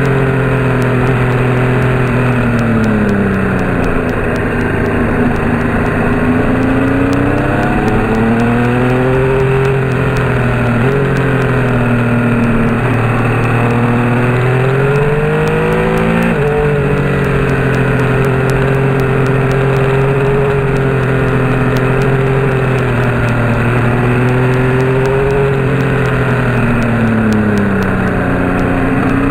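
Car engine under way, its note rising and falling repeatedly as the revs change, with two abrupt jumps in pitch partway through.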